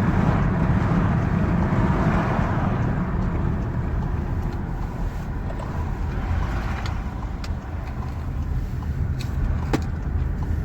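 Skoda Kodiaq driving along, heard from inside the cabin: a steady low rumble of road and engine noise. A few sharp clicks come in the later seconds.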